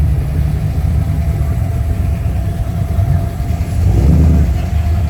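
Car engine running at idle, its low rumble swelling briefly about four seconds in.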